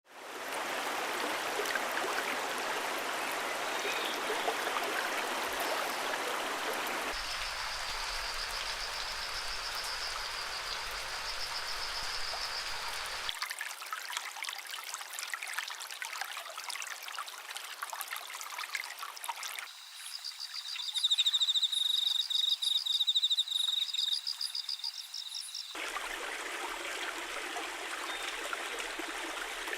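Small songbirds singing fast, high trills in two stretches, over a steady rush like running water; the sound changes abruptly several times.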